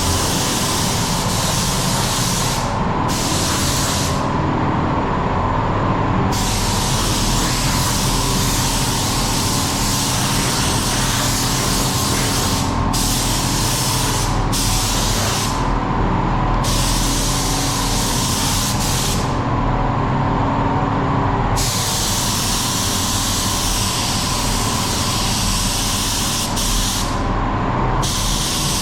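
Air-fed paint spray gun hissing as primer is sprayed in long passes, the trigger released for a moment or two several times, over a steady low hum. The sprayer says the gun is gummed up and spraying poorly, needing a full strip-down and clean.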